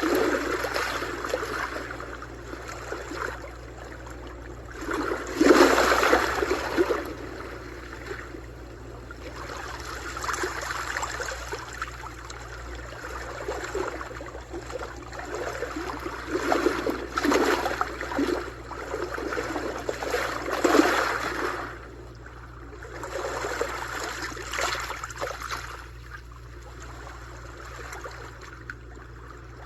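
Sea waves washing in and drawing back, a swell of rushing water noise every few seconds, the loudest about six seconds in and again about twenty seconds in.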